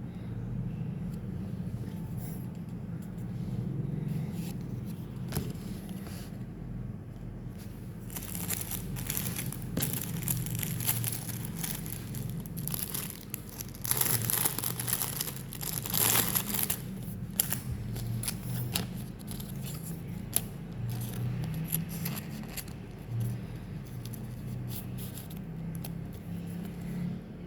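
Pokémon TCG booster pack wrapper being torn open and crinkled, with a long stretch of rustling and crackling from about 8 to 17 seconds and scattered clicks of cards being handled, over a steady low hum.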